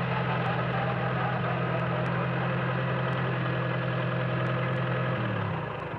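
Farm tractor engine running steadily at idle, then slowing and dying out near the end as it is shut off.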